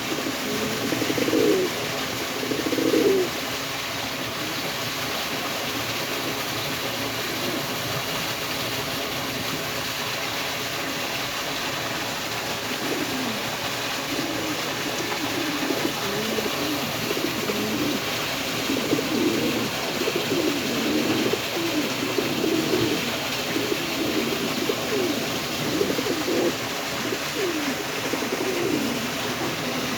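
Fancy domestic pigeons (Jacobins and fantails) cooing in low, repeated rolling coos. There are a few coos at first, a lull of about ten seconds, then near-continuous overlapping cooing from several birds over a steady hiss.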